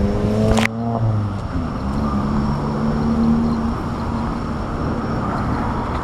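Storm wind from a typhoon rushing over the microphone, with a motor vehicle's engine running underneath. The engine's pitch rises for the first half-second, there is a click, and then it holds a steadier low note.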